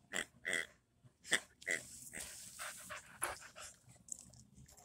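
Boxer dog panting in quick, uneven breaths after play.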